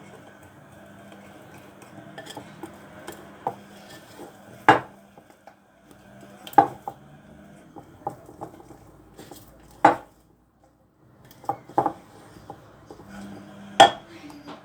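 Dishes and cutlery clinking and knocking, a handful of sharp clinks spread out, with a low steady hum underneath.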